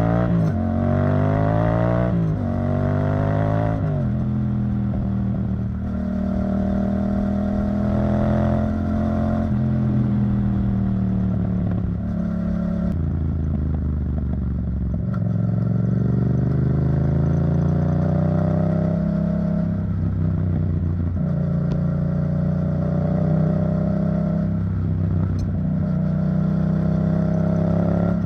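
Yamaha MT-07's 689 cc parallel-twin engine through an Arrow Thunder titanium exhaust, ridden under acceleration: the pitch climbs and drops back twice in quick upshifts in the first four seconds, then holds steady at cruising revs. About halfway through it eases off and slowly builds again.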